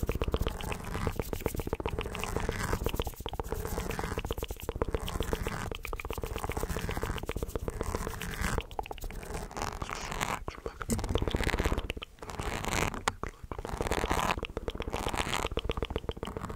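Fast, wet ASMR mouth sounds made right against the microphone: a dense run of rapid clicks and crackles, broken by brief pauses about twelve and thirteen seconds in.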